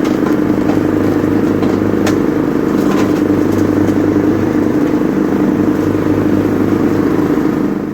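Lawn mower's small gasoline engine running steadily at a constant speed, with a few faint clicks, after grass and debris plugging its fuel filter were cleaned out of the tank. It cuts off abruptly at the end.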